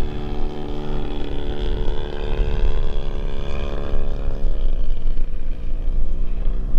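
Desert Aircraft DA-100 twin-cylinder two-stroke gas engine of an RC Super Decathlon model airplane running in flight as a steady drone. Its note eases off and drops a little about four and a half seconds in, as it is throttled back toward landing.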